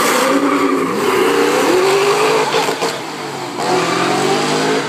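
Engines accelerating hard in a drag-race launch down the strip. The pitch climbs, falls back at a gear change about two and a half seconds in, then climbs again.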